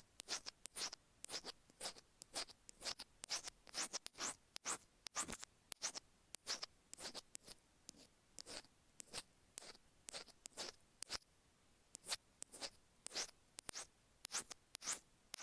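Stainless steel ear pick scratching over the grooves of an iPhone earphone microphone: quick gritty strokes, about two to three a second, with short pauses between runs.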